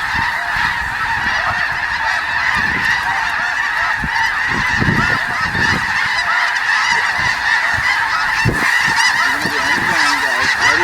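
A large flock of snow geese calling overhead: a dense, continuous din of many overlapping high-pitched honks, with a few brief low thumps underneath.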